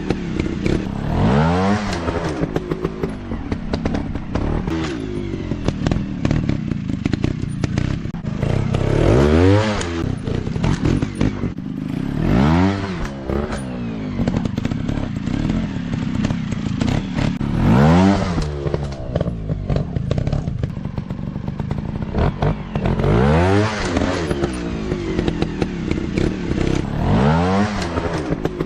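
Off-road dirt bike engines revving repeatedly, the pitch rising and falling in bursts every few seconds, with scattered clattering knocks.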